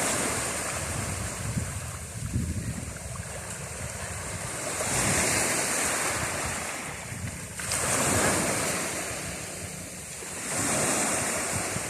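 Ocean surf washing ashore, the waves swelling and falling back about three times, with wind buffeting the microphone.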